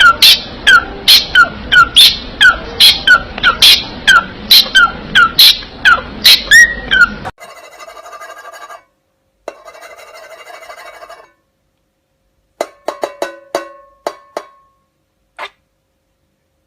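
A parrot screeching in sharp, loud calls, about two a second, each dropping in pitch; they stop about seven seconds in. Then comes a buzzy sound in two stretches, followed by a run of clicks with short tones and a last click.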